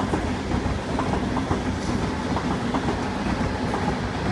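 Train passing at speed through a station: steady running noise with wheels clicking over the rail joints.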